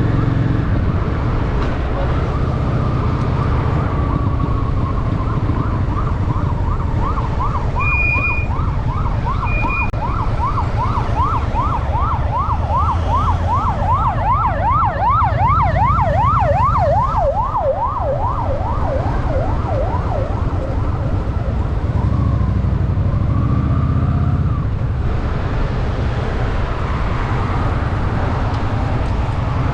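Emergency vehicle siren in traffic: a slow wail for a few seconds, then a fast yelp sweeping up and down for about fifteen seconds, with two short high beeps partway through. Under it runs the steady low rumble of a Honda Shadow VT750's V-twin engine.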